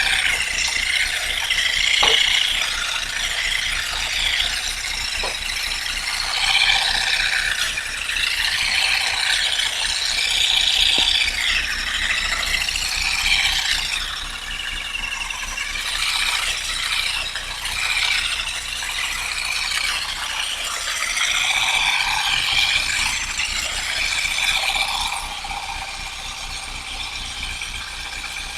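Olive harvesting: a comb working through olive branches, leaves and olives rattling and clattering continuously, with a few sharp clicks in the first seconds.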